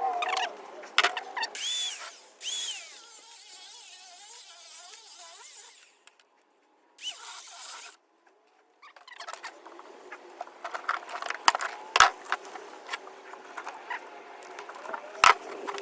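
A power tool cutting into metal: a loud, high squealing whine that wavers in pitch, stopping twice briefly. After that come scattered clicks and knocks of metal parts being handled.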